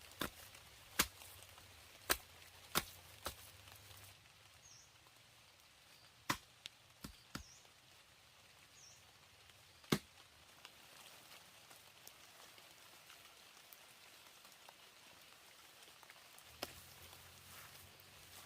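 Sharp, irregular chopping knocks of a tool striking wood, about a dozen blows: several in the first few seconds, a quick cluster around seven seconds in, then single blows near ten seconds and near the end, with long pauses between.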